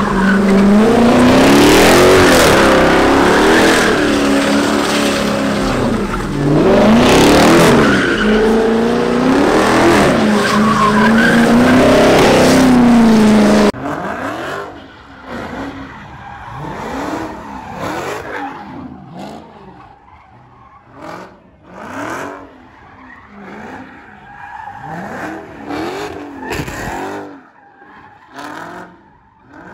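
Dodge Charger engine revving hard, its pitch sweeping up and down, with tyres skidding as the car spins donuts. About 14 seconds in, the sound cuts to a quieter recording of another Charger doing donuts, its engine rising and falling over and over.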